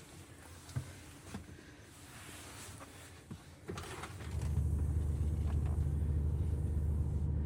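A few light clicks and knocks, then about four seconds in a steady low rumble of a truck's engine sets in and runs on.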